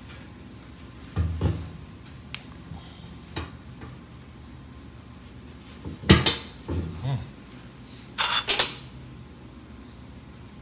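Metal parts knocking and clinking as they are handled. There are a few light knocks at first, then louder clattering about six seconds in and a quick cluster of sharp clanks about eight and a half seconds in.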